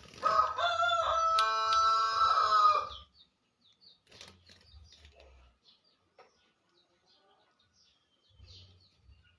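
A bird gives one long, loud call lasting nearly three seconds, held on a steady pitch. Faint short chirps follow.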